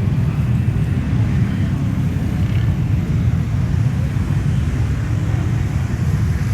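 Mud-bog truck engines running, a loud steady low rumble.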